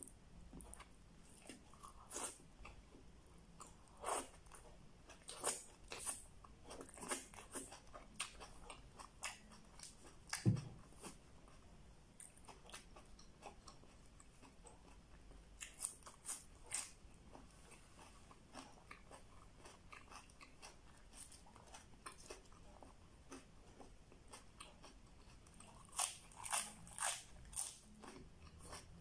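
Close-miked eating: a person chewing and crunching mouthfuls of food picked up by hand, in scattered bunches of short crunches and mouth smacks, with one louder dull thud about ten seconds in.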